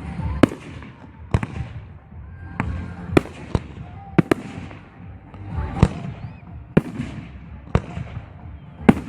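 Fireworks display: aerial shells bursting one after another, about ten sharp bangs with a rumbling echo between them.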